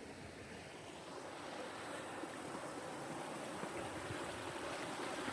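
Creek water running, a steady rush that grows gradually louder.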